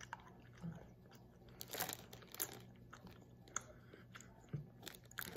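Faint chewing of a SweeTarts candy: scattered soft mouth clicks and smacks, busiest about two seconds in.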